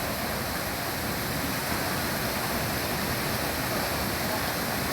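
Mountain valley stream running steadily, an even rush of water.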